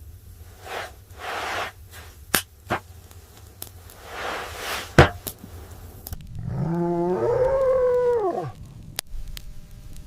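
Several swells of whooshing noise with a few sharp clicks, then a loud, drawn-out animal call, about two seconds long, that climbs and then falls away.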